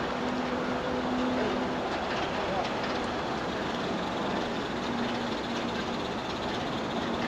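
A train at a heritage railway making a steady rushing noise with a low hum that fades in and out.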